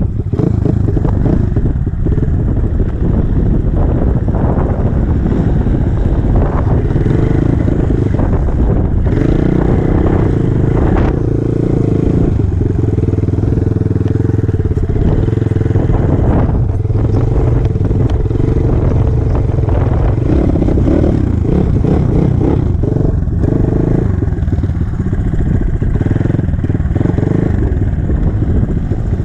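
Enduro motorcycle engine running continuously, its pitch rising and falling every few seconds as the throttle is opened and closed.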